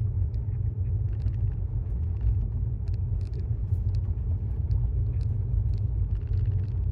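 Steady low road and tyre rumble heard inside the cabin of a moving 2018 Tesla Model S 75D, an electric car with no engine note, with a few faint ticks over it.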